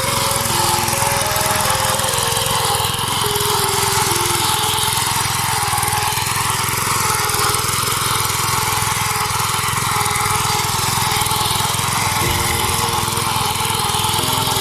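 Walking hand tractor (kuliglig rotavator) engine running steadily.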